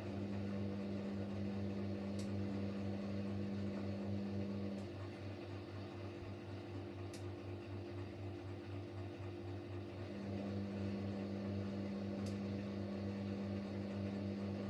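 Siemens Siwamat Plus 574 washing machine running an intermediate spin between rinses. A steady low hum carries a higher steady tone that runs for about the first five seconds, drops out, and comes back about ten seconds in. A few faint ticks sound along the way.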